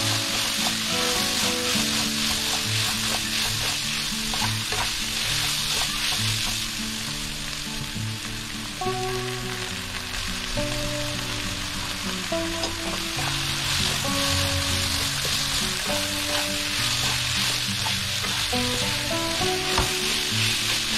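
Minced pork sizzling steadily in hot oil in a nonstick wok, stirred and scraped around with a slotted spatula.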